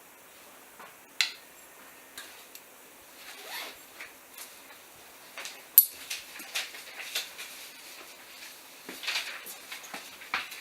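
Scattered light clicks, clinks and scrapes of tools and small metal engine parts being handled during a motorcycle engine teardown, with a sharper click about a second in and another near the middle.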